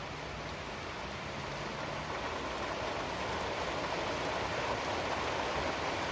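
Steady rain falling, its hiss growing a little louder about two seconds in.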